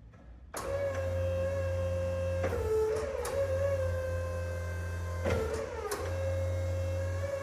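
Electric motor of a Flexi G4 battery forklift running with a steady whine over a low hum, starting suddenly. The pitch briefly dips and glides back about two and a half and five seconds in.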